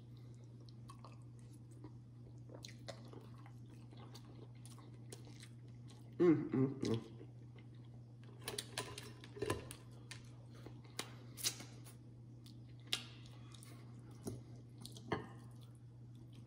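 A person chewing food from a seafood boil close to the microphone, with scattered wet mouth clicks and a louder stretch of chewing about six seconds in, over a steady low hum.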